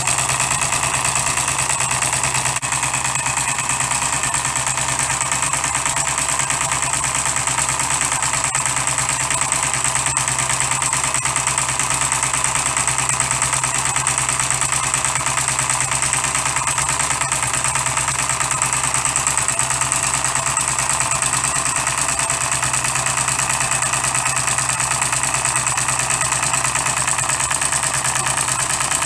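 Custom-built 12cc direct-injection model diesel engine running at a steady speed, its rapid firing even and unchanging.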